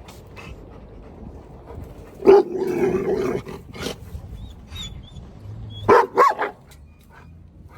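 Rottweiler barking: a loud bark drawn out for about a second a little over two seconds in, then two or three quick barks about six seconds in.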